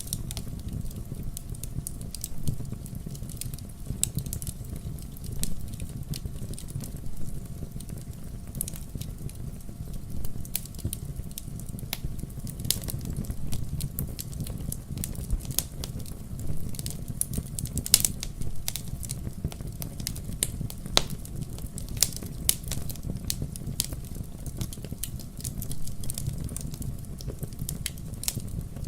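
Wood fire burning in a fireplace: a steady low rumble of flames with frequent irregular crackles and pops, a couple of sharper snaps about two-thirds of the way through.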